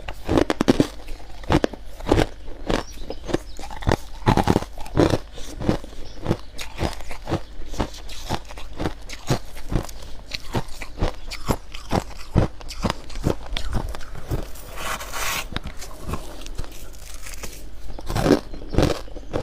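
Close-up chewing of frost scraped from a humidifier: a steady run of soft and hard crunches, about two to three a second, with a longer hiss about fifteen seconds in.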